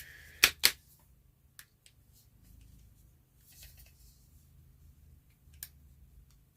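Handling of a vintage flashlight: two sharp clicks in quick succession about half a second in, then a few lighter clicks and faint rattling as it is turned over in the hands.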